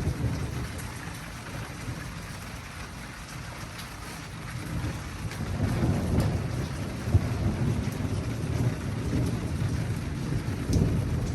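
Thunder rolling in a heavy rainstorm: a deep rumble that eases early and builds again about halfway through, over the steady hiss of falling rain.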